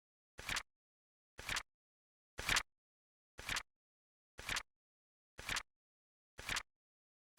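Flip clock timer's flip sound effect, a short sharp click repeated once every second, seven times, with silence between.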